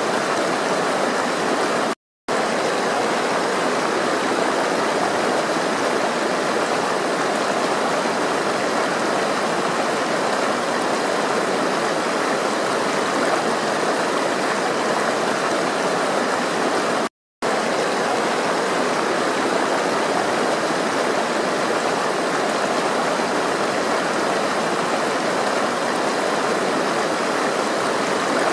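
Water flowing steadily, a continuous rushing and babbling like a stream. The sound cuts out to silence twice for a split second, about two seconds in and again past the middle.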